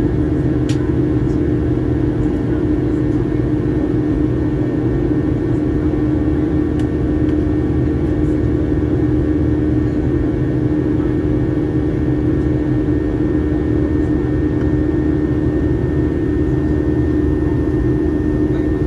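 Steady in-flight drone of a Boeing 737-800 heard from the passenger cabin: the CFM56 jet engines and rushing air make a constant rumble with a steady hum on top.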